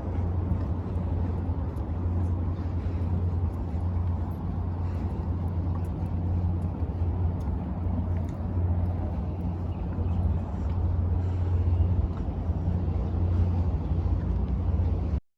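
Steady low outdoor rumble with no clear single event, like wind on the microphone or distant traffic, cutting out abruptly just before the end.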